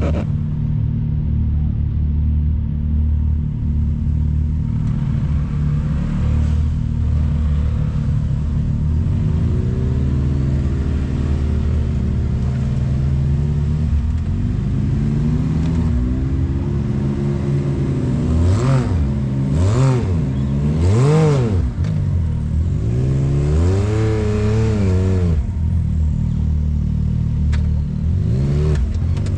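Side-by-side UTV engine running steadily while driving a trail, then revved up and down several times in quick succession in the second half.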